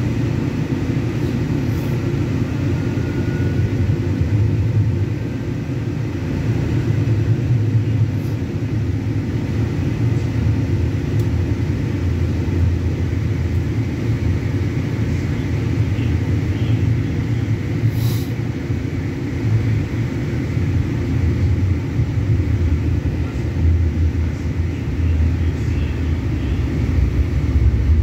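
Light-rail train car in motion heard from inside: a steady low rumble as it rolls along the track, with one brief sharp click about 18 seconds in.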